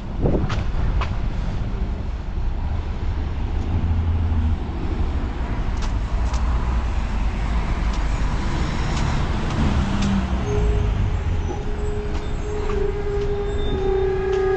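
Heavy road traffic going by: vehicle engine rumble and tyre noise. About ten seconds in, a steady pitched tone comes in and grows louder toward the end.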